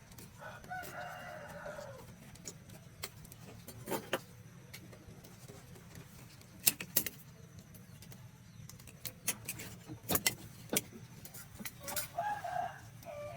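A rooster crows twice, once near the start and again near the end. Between the crows come scattered sharp clinks and knocks, like tools on metal, over a low steady hum.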